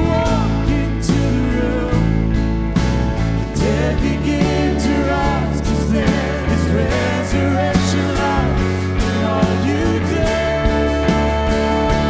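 Live contemporary worship band playing with a steady drum beat and sustained chords, with a voice singing or vocalising over it and holding a long note near the end.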